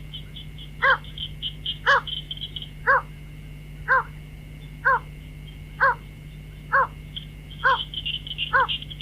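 White-breasted waterhen calls, a short hoarse 'cuốc' note repeated about once a second, used as a lure call for trapping waterhens. A faint rapid high chirping runs under it during the first few seconds and again near the end.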